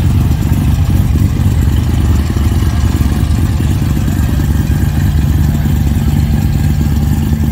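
Chevrolet Camaro SS V8 running with a low exhaust note as the car pulls slowly away. About halfway through the note settles into an even drone.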